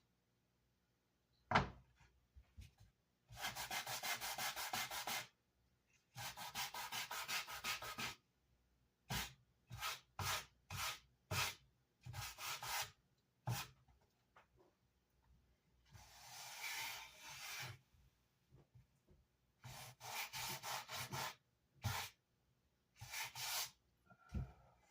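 Hand rubbing on the wooden baffle board of a Vox AC30 amplifier, in bursts of rapid back-and-forth strokes. The longer runs last about two seconds, with shorter strokes in between.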